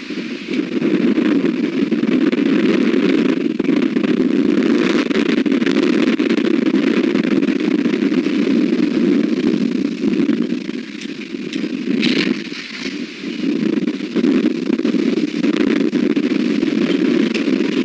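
Strong wind buffeting the nest camera's microphone in a steady rushing roar, easing briefly about two-thirds of the way through.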